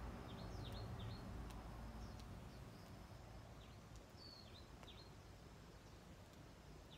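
Faint bird chirps: short, high notes that drop in pitch, repeating every second or so over quiet outdoor background, with a low rumble that fades about a second and a half in.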